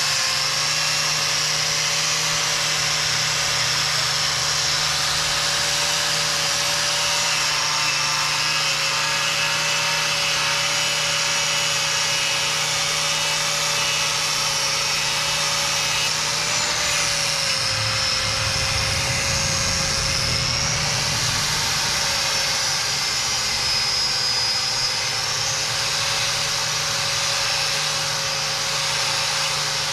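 Angle grinder with a stiff wire cup brush running steadily, scrubbing old undercoat off metal. Its whine sags slightly in pitch a few times as the brush is pressed into the work.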